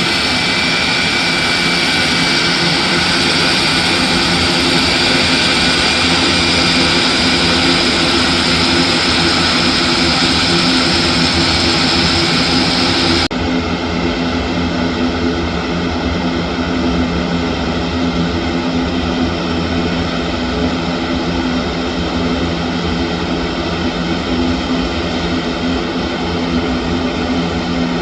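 Airbus A400M's four turboprop engines running steadily, a loud continuous drone of stacked propeller and engine tones with a hiss over it. About 13 seconds in, the high hiss drops away abruptly while the drone carries on.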